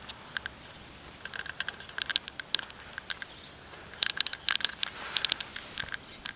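Dry corn leaves and stalks rustling and crackling in quick, irregular clicks as they are brushed through on foot, in two flurries: one about a second in and a denser one about four seconds in.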